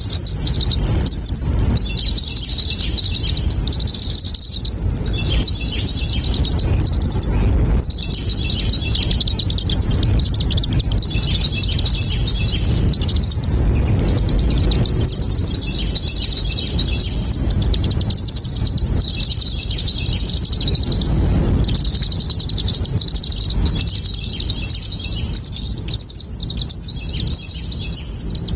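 Birds chirping rapidly and almost without pause in high-pitched notes, over a steady low rumble.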